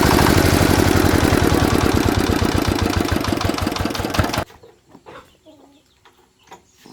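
Single-cylinder D8 diesel engine running with a loud, even knock of firing strokes. The beats slow from about two and a half seconds in, and the sound cuts off sharply about four and a half seconds in, leaving only faint scattered sounds.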